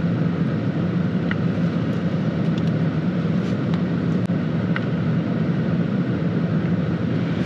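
Steady low hum and rushing noise of a truck running, like an idling engine with the heater fan blowing, with a few faint light ticks.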